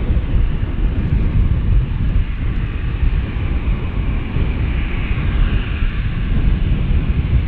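Jet airliner engines rumbling steadily, with a faint high whine above the deep roar.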